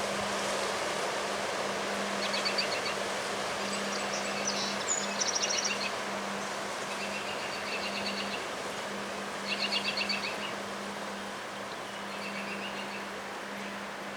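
Strong wind blowing in a steady rush, with a bird singing short trilled phrases every second or two over it and a steady low hum underneath.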